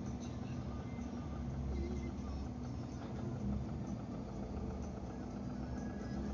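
Steady low engine rumble heard from inside a car's cabin, with no sharp events.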